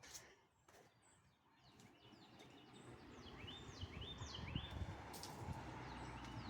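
Faint bird chirps: a run of short, falling notes about three to five seconds in, over a low background rumble that grows after the first two seconds.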